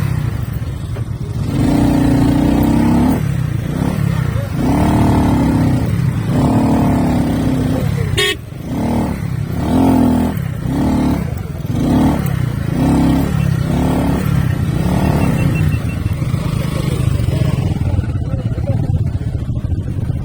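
Motorcycles running on the road. A horn sounds in three long blasts, then in a string of about seven short beeps, with a sharp click partway through.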